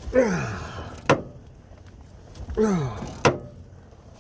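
A tight, rusted bolt creaking with a falling squeal as a ratchet pulls it round, each pull followed by a sharp click of the ratchet, twice.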